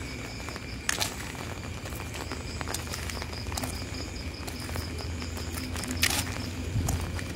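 Steady rain falling, with scattered drips and footsteps and two louder knocks, about a second in and about six seconds in. A high pulsing insect trill runs over it.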